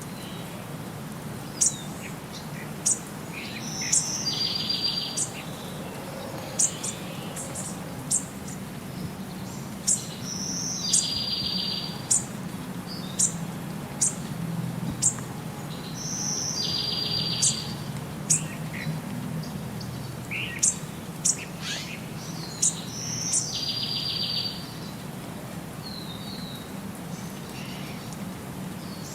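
Birds calling: many short, sharp, high chip notes and a short buzzy trill, preceded by a higher note, repeated about every six seconds, over a steady low background rumble.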